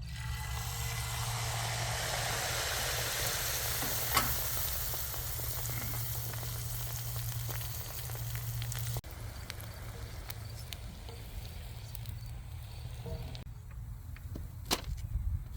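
Tractor engine running steadily, a low hum under a broad hiss; the hiss drops suddenly about nine seconds in, with a single sharp click about four seconds in.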